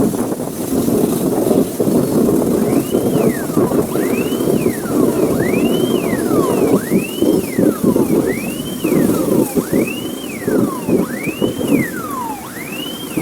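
An emergency vehicle siren wailing, its pitch rising quickly and falling more slowly, about once every second and a half, starting a couple of seconds in. It sounds over a loud, steady, noisy rumble.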